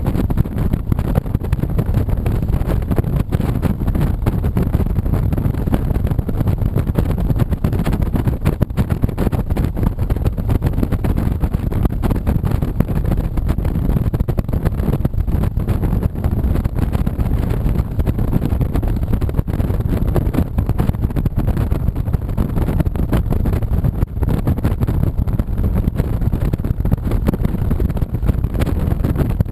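Steady rumble of a 2007 Honda VTX 1300C's V-twin engine under heavy wind noise buffeting the camera microphone while the motorcycle is ridden at speed.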